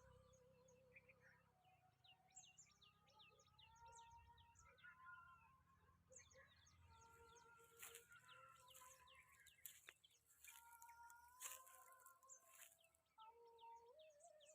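Faint bird calls: many short high chirps mixed with longer held whistled notes.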